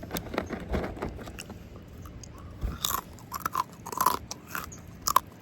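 Close-miked chewing and biting of rotisserie chicken: irregular wet smacks and clicks, with louder crunches about three to four seconds in.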